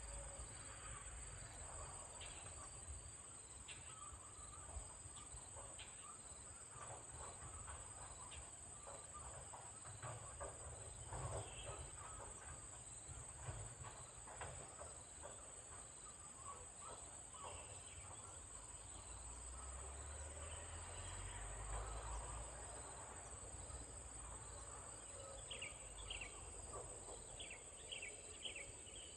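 Insects trilling outdoors: a steady, faint, high-pitched drone without a break, with scattered soft clicks and a few short high chirps near the end.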